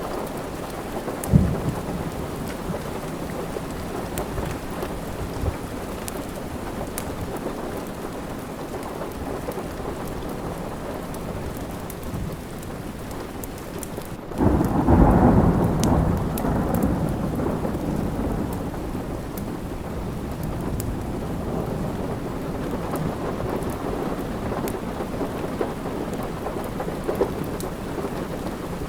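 Steady rain with a roll of thunder about halfway through that rumbles loudly and fades over several seconds, and a short low thump about a second in. Faint crackles of a wood fire tick over the rain.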